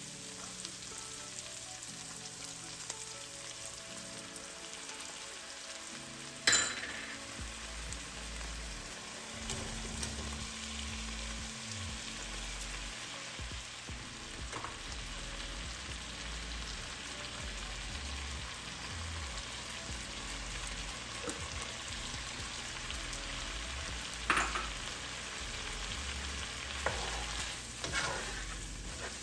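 Food frying with a steady sizzle in a nonstick pan: sliced red onions with garlic, then bite-sized pork pieces in sauce, stirred with a wooden spoon. A sharp knock comes about six seconds in, and a few more near the end.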